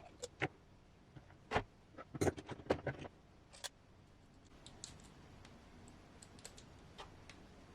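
Sharp clicks and taps of small plastic parts being handled and fitted by hand, several in the first three seconds, then a few fainter ticks.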